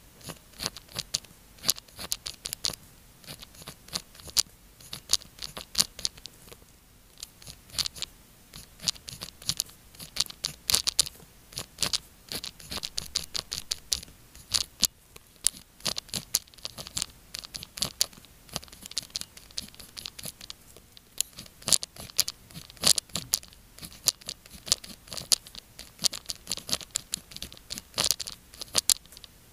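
A pen writing on paper: a quick, irregular run of short scratchy strokes and ticks as Chinese characters are written out by hand, with brief pauses between groups of strokes.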